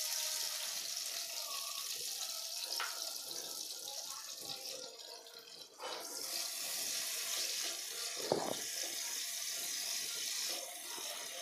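Thin-sliced bitter gourd shallow-frying in hot oil in a non-stick kadai: a steady sizzle that dips about five seconds in and comes back, with a short knock of the spatula against the pan about eight seconds in.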